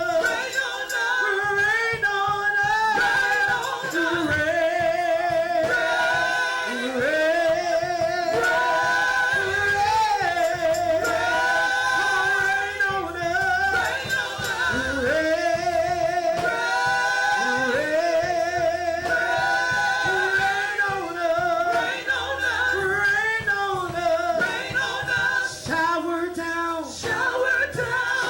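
Gospel praise team singing a worship song, with voices holding long notes in vibrato.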